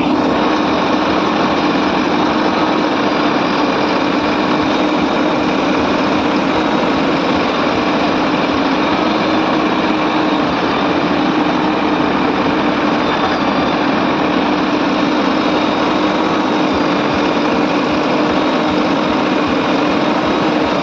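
JCB 3DX backhoe loader's diesel engine running steadily at a constant speed, a continuous hum with no revving.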